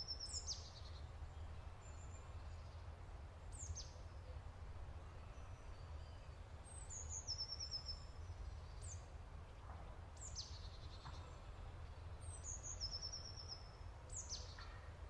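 A small bird singing: a high phrase of short notes stepping down in pitch, given three times about every six seconds, with sharp high notes sweeping down between them. A low steady rumble runs underneath.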